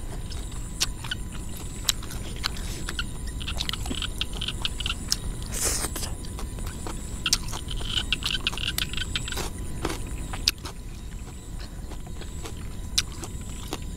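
Close-up mouth sounds of a person eating raw chopped beef: irregular chewing clicks and lip smacks, with a short rushing sound about six seconds in. A steady low rumble lies underneath.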